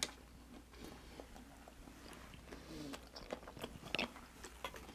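Faint, close-miked eating sounds: chewing, with scattered small mouth clicks and smacks.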